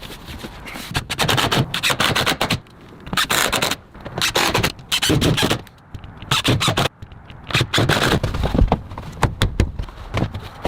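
Irregular series of sharp knocks and scraping noises from building work, some in quick runs and some spaced out, with short quieter gaps between the busy passages.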